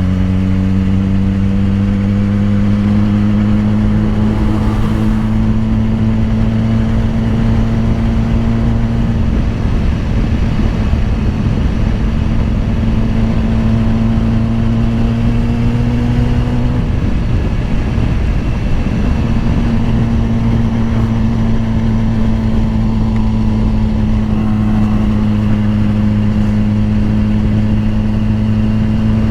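BMW S1000RR inline-four engine pulling under steady throttle, its note slowly climbing. It drops back briefly a little over halfway through, then climbs again, over a constant rush of wind and road noise.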